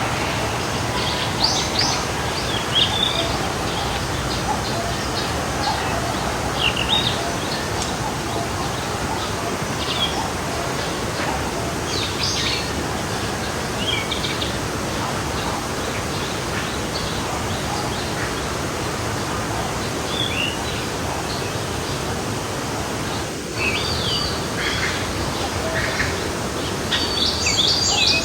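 Forest stream flowing with a steady rush of water, with scattered short chirps and song phrases from small birds, which become busier near the end.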